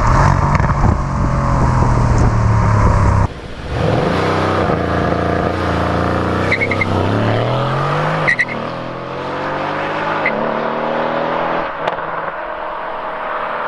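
Mercedes-AMG C63's 4.0-litre twin-turbo V8 heard in edited driving clips. It drones steadily at first, then after a cut it rises in pitch as the car accelerates, then eases off into a steadier note.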